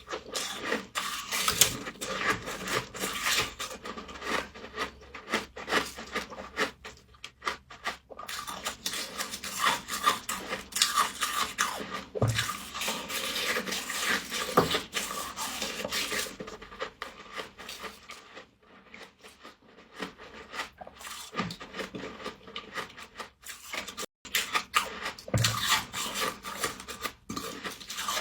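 Frost being crunched and chewed close to the mouth: a dense, irregular crackling and rasping that thins out for a few seconds past the middle, with a few soft low thuds.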